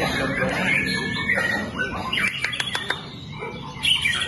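White-rumped shama (murai batu) singing a rapid, varied song with quick pitch glides, with a few sharp clicks a little past the middle.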